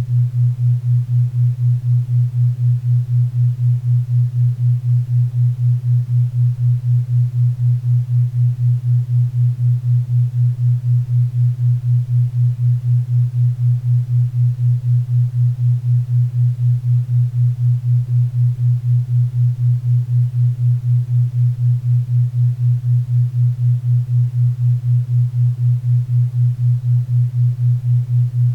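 4 Hz theta-wave beat: a steady low hum pulsing evenly about four times a second, over a faint bed of pink and brown noise.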